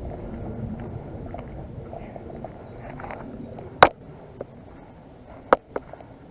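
Low rumbling noise on the microphone, then two sharp cracks about a second and a half apart, each followed by a smaller click, from an airsoft gun being fired.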